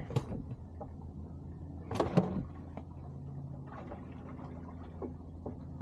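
A few knocks and bumps, the loudest cluster about two seconds in, over a steady low hum.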